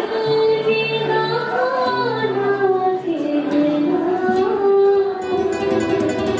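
A woman singing a slow melody without words, with long held notes that glide from one pitch to the next.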